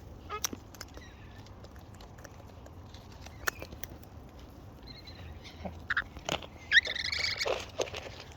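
Wild parrots at a feed: scattered sharp clicks and taps, then a short bird call with a gliding pitch about seven seconds in.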